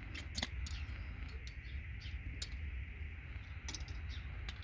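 Scattered light clicks and ticks of small RJ45 contact pins and plastic connector housings being handled and pried apart, over a steady low hum.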